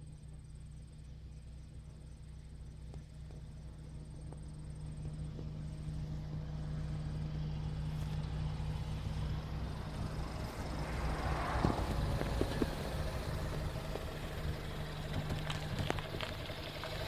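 Car engine idling with a steady low hum that grows gradually louder, with a few light clicks about two-thirds of the way through.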